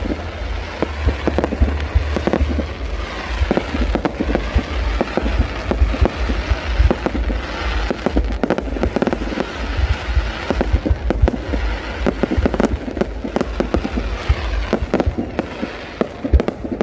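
Fireworks display going off: a dense, continuous run of rapid bangs and crackles.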